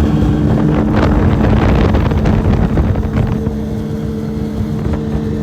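Yamaha 115 V-MAX SHO four-stroke outboard running at a steady high speed, its pitch holding constant, with wind rushing over the microphone.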